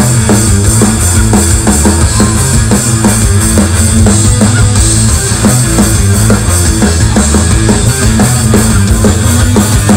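Instrumental break of a rock song: a drum kit keeps a steady beat under bass and guitar, with no singing.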